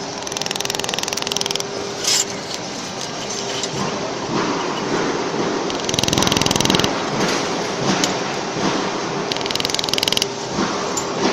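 Laser welding machine firing in three bursts of rapid buzzing pulses, each about a second long, over a steady machine hum.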